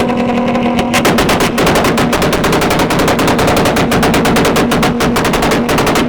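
A tuned car's engine held at high revs, then cracking out a rapid string of exhaust pops and bangs from about a second in, like machine-gun fire, the way an engine sounds bouncing on a rev limiter or launch-control limiter.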